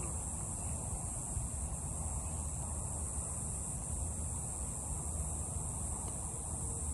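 Insects droning in a steady, high, even buzz, with a low rumble underneath.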